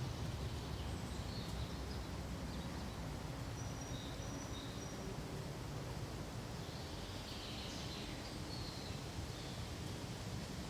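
Pine forest ambience: a steady, soft low rushing like wind through the pines, with a few faint, short high bird chirps scattered through.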